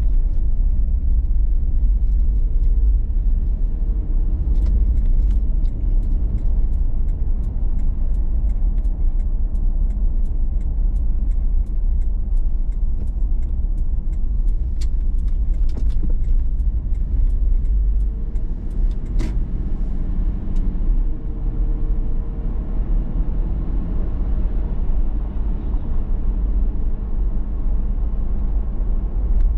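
2019 Toyota 4Runner TRD Pro's V6 engine and tyres as it drives: a steady low road rumble with a few faint clicks now and then.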